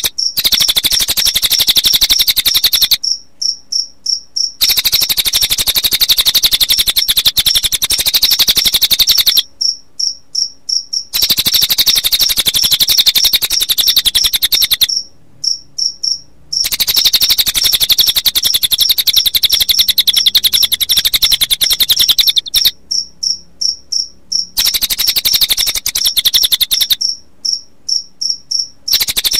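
Recorded cililin bird song mixed with cricket chirping: long stretches of fast, buzzy, high-pitched trilling, broken every few seconds by short pauses filled with a few stuttered chirps.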